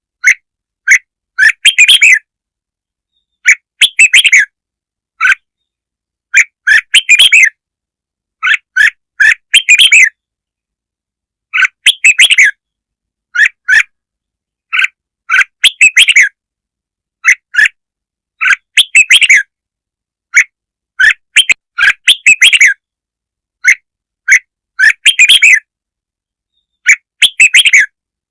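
Red-whiskered bulbul singing a lure song: loud short chattering phrases, each under a second long, repeated every second or two with silent gaps between them. It is the kind of lure call played to draw in and provoke bulbuls.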